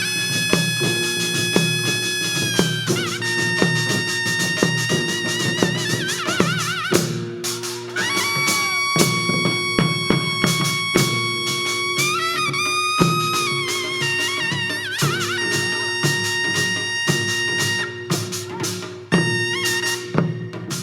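Korean traditional music for the Jindo drum dance: a wind instrument holds long high notes that waver and bend at their ends, over frequent drum strokes.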